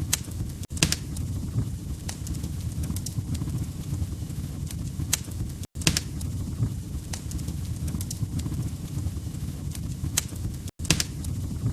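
Log fire crackling in a fireplace: a steady low rumble of flames with irregular sharp pops and snaps. The sound cuts out for an instant three times, about five seconds apart.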